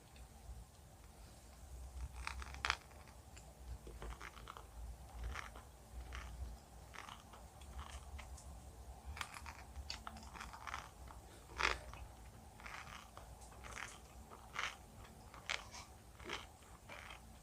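A person chewing and biting jelly sweets and candy: a run of irregular, sharp, crackly clicks and squishes. Two louder bites come about three seconds and about twelve seconds in.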